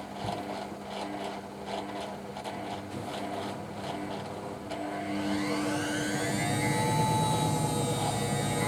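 Hoover A3308 washing machine's drum motor running, with faint regular ticking; about five seconds in, its whine rises in pitch as the motor speeds up and then holds at a steady, louder, higher whine.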